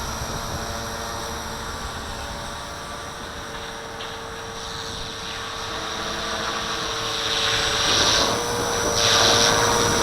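Electric 450-size RC helicopter (Walkera V450D01) hovering: a steady whine from its brushless motor and rotors, growing louder in surges near the end as the throttle works against gusts of wind.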